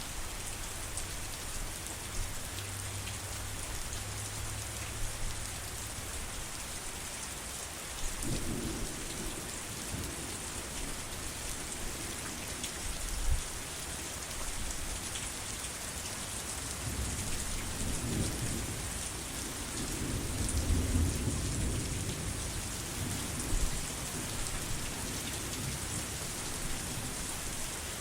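Steady heavy rain with rolling thunder: a low rumble begins about 8 seconds in, and a longer one builds a little after halfway, with a couple of short thumps between.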